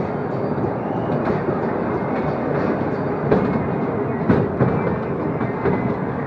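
Small amusement-park ride train rolling along its track: a steady rumble with wheel clatter, and a couple of sharper knocks about three and four seconds in.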